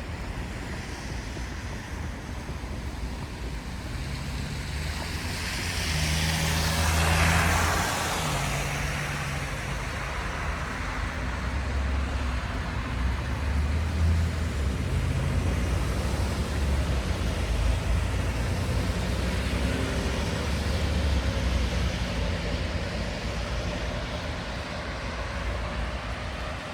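Road traffic passing on a snowy city street: low engine hum, with one vehicle going by close about seven seconds in, its tyre hiss swelling and fading, and more passing vehicles after it.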